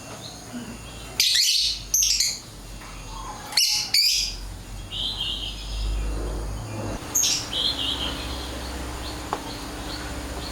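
Birds chirping in a handful of short, high-pitched bursts.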